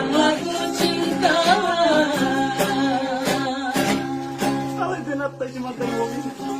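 Acoustic guitar strummed in a steady rhythm under a man's singing voice, which holds long, wavering notes.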